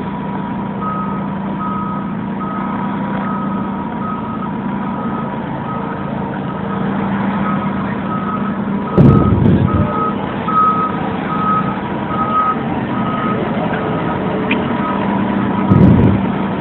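FDNY fire engine backing up, its reversing alarm beeping about once every 0.8 seconds over the steady running of its diesel engine. Two louder low rushes come about nine seconds in and near the end.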